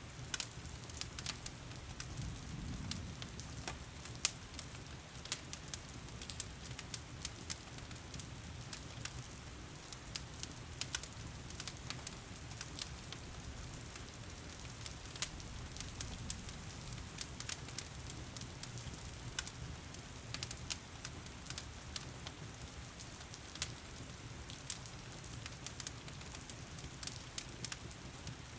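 Wood fire crackling in a fireplace, with frequent sharp pops and snaps over a soft low rumble, mixed with the steady hiss of heavy rain.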